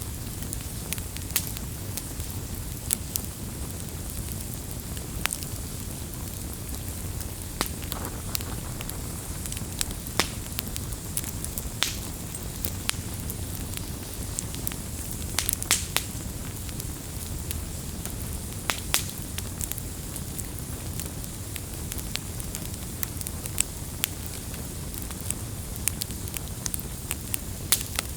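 Campfire burning with a steady low rumble and irregular sharp pops and crackles, several a second, some louder snaps standing out.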